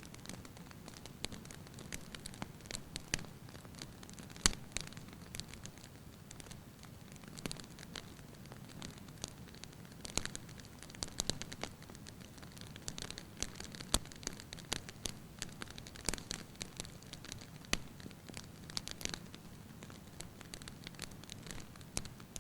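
Firewood burning in a fireplace: a light steady hiss with irregular crackles and pops, the sharpest pop about four and a half seconds in.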